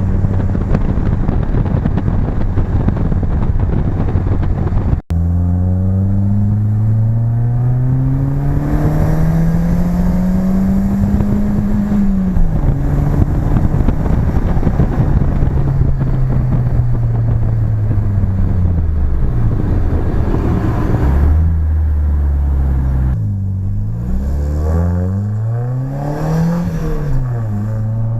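BMW E30 engine through its new exhaust. After a stretch of wind-blown noise and a cut, the engine climbs steadily in pitch under acceleration, drops once at a gear change and holds. It then winds down to a low steady note and is revved up and down several times near the end.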